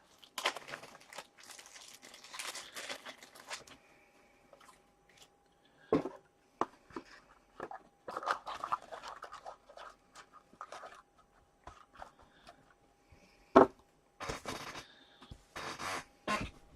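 Plastic card sleeves and foil card-pack wrappers rustling and crinkling as trading cards are handled. Scattered clicks and taps run through it, the sharpest a single tap a little before the end.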